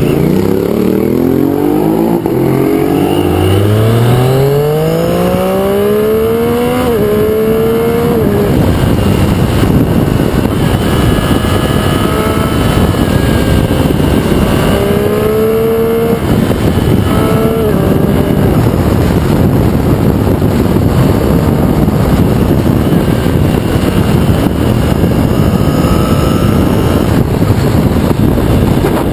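Triumph Street Triple RX's inline three-cylinder engine accelerating with rising pitch, dropping about seven seconds in as it shifts up. Steady wind noise on the microphone then dominates, with the engine rising briefly beneath it a few times.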